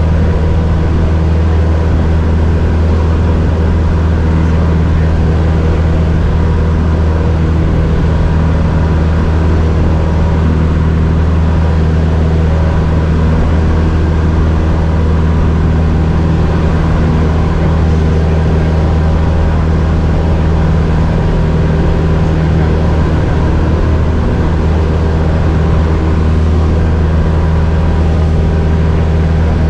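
Cessna 172's piston engine and propeller running loud and steady at constant power, with no rise or fall in pitch.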